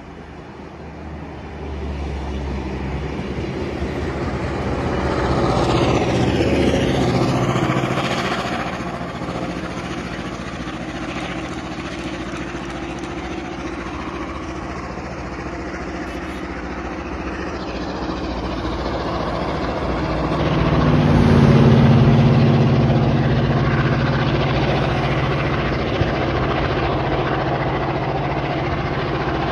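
Heritage passenger train passing on the rails, rising to a peak with sweeping changes of pitch about six to eight seconds in, then fading as it pulls away. From about twenty seconds in a heavy engine's low steady drone swells and becomes the loudest sound, holding to the end.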